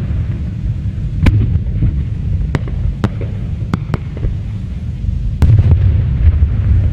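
Aerial fireworks display: a dense, continuous low rumble of shell bursts, with sharp bangs standing out about a second in, several times between two and four seconds, and again around five and a half seconds, when the booming grows louder.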